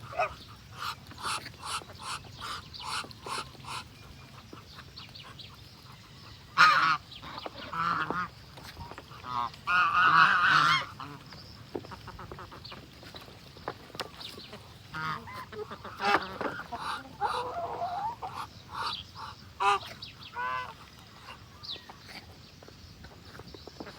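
Domestic geese honking, mixed with duck calls: a run of short, evenly repeated calls at first, then several louder bursts of honking.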